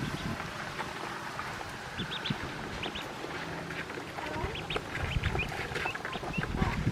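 Pekin ducklings peeping: many short, high peeps that start about two seconds in and come thicker towards the end, over low rustling.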